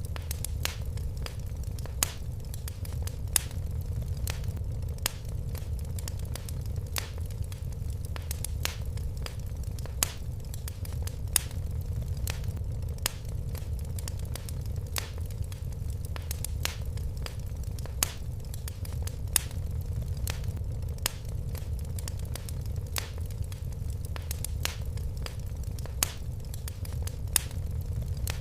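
Fire crackling in a fireplace: a steady low rumble of flames with frequent small snaps and a louder pop about every second and a half.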